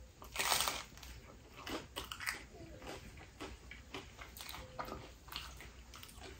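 A bite into a thin-crust slice of spinach pizza about half a second in, the loudest sound, followed by close-up chewing with small crunching clicks.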